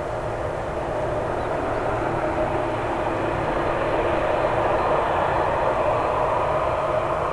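Jet engines of a Boeing 767-300 airliner running steadily: a continuous noise with faint steady tones that grows slightly louder midway.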